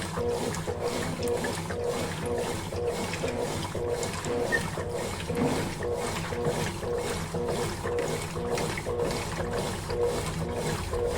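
Consul Facilite 11 kg top-loading washing machine agitating a load of laundry in water: the motor hum and the churning of the clothes pulse in an even rhythm, about three times a second.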